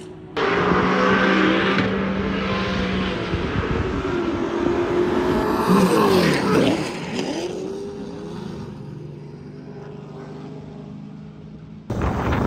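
Drift car engines running at high revs. About six seconds in, a car passes close by and its pitch sweeps down. The sound changes abruptly about half a second in and again near the end.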